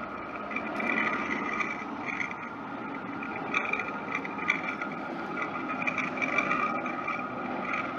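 Jet airliner engines running: a steady whine over a wide rushing noise.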